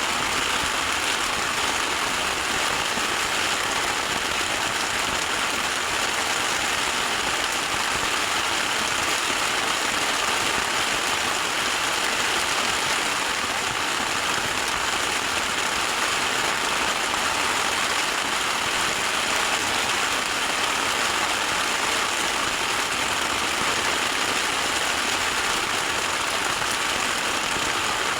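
Very heavy tropical downpour of rain, heard from inside a tent shelter: a dense, steady hiss that never lets up.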